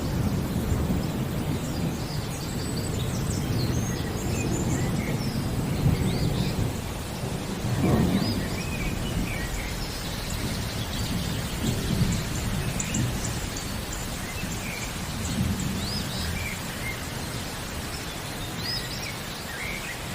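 Steady rain with thunder rumbling low, swelling and fading, loudest about eight seconds in, while birds chirp in short high calls throughout.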